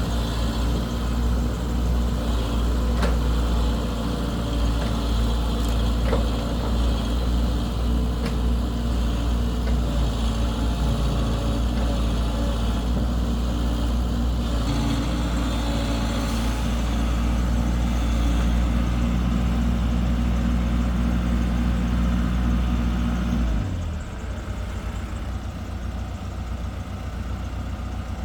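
Heavy construction machine's diesel engine running steadily at a low, even note. About 24 seconds in, the low engine note cuts off abruptly and a quieter engine sound carries on.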